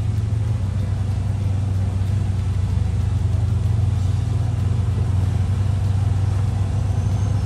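Honda Pioneer 1000 side-by-side's parallel-twin engine running steadily while it drives along a trail, a steady low drone with no sharp revs.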